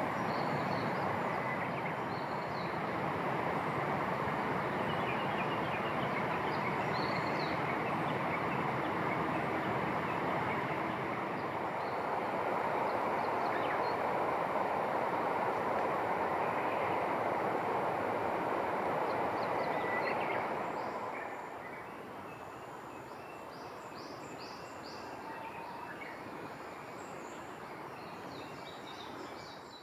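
A steady rushing noise that drops off about two-thirds of the way through, with small birds chirping faintly over it, more busily near the end.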